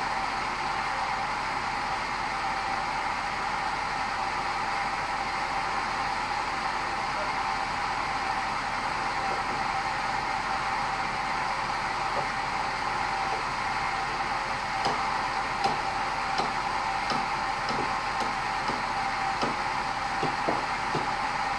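Sawmill bandsaw running with a steady noise, with scattered knocks and clicks in the last third.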